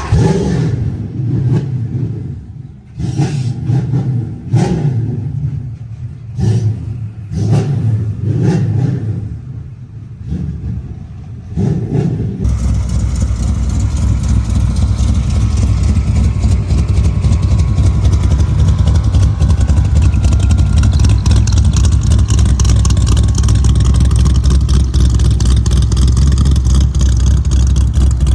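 Car engine revved in short uneven bursts, each rising and falling in pitch. About twelve seconds in it gives way abruptly to a steady, loud engine drone.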